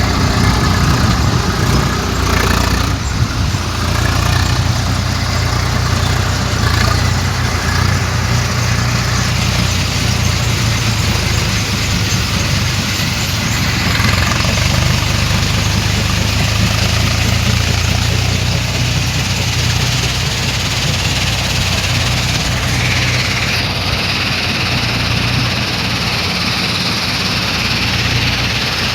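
Tractor engine running steadily under a heavy sand load.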